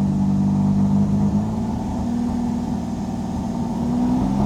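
Pontiac Fiero engine running in neutral under light throttle, its revs stepping up a little and then sagging instead of climbing cleanly. This is the light-throttle bog and misfire that the owner has been chasing and no longer thinks is spark or fuel related.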